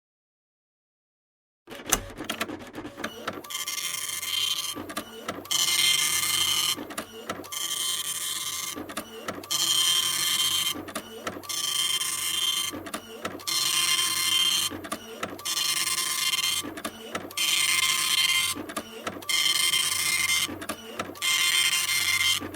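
Typewriter at work: after near silence it starts with a sharp clack about two seconds in, then runs in a steady string of bursts about a second long, each followed by a short pause.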